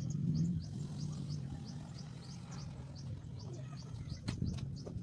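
Small birds chirping, short high notes repeating about three to four times a second, over a steady low hum, with one sharp click about four seconds in.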